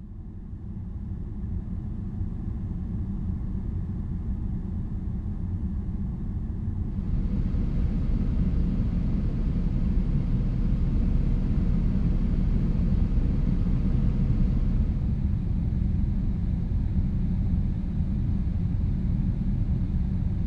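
Jeep driving, a steady low rumble of engine and tyres that grows louder over the first few seconds. A higher hiss joins in about seven seconds in and eases off around fifteen seconds.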